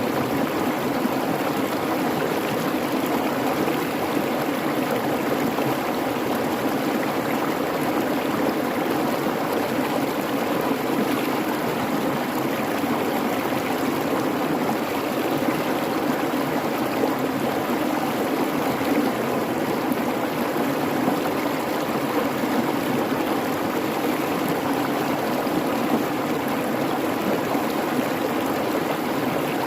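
Creek water babbling steadily, an even rushing sound with no breaks or sudden events.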